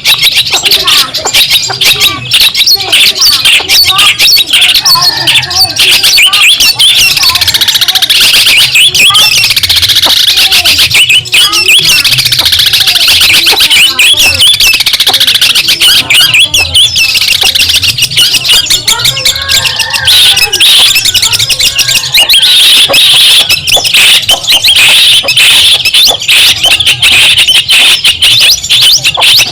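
Long-tailed shrike (cendet) singing without a break: a loud, fast, scratchy chatter of rapid clicks and quick high warbling notes.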